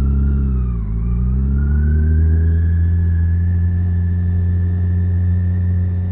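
BMW K1600B motorcycle's six-cylinder engine running under way; its pitch drops about a second in, then climbs and holds steady.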